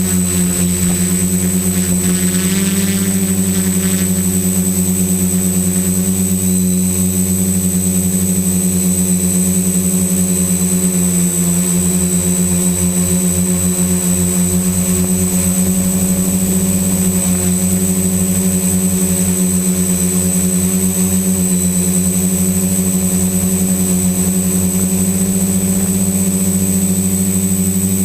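XAircraft X650 Pro V4 quadcopter's electric motors and propellers droning steadily in flight, the pitch wavering slightly, with a thin constant high whine above it.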